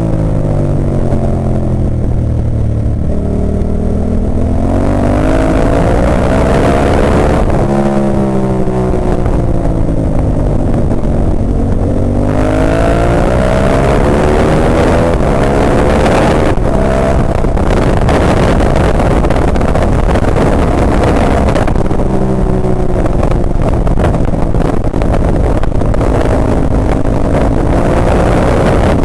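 Ducati 998's L-twin engine at racing pace, heard from on board: revs drop away near the start, climb again from about eight seconds in, hold high through the middle, fall off around two-thirds of the way through and climb once more near the end, the pattern of braking into corners, downshifting and accelerating out through the gears.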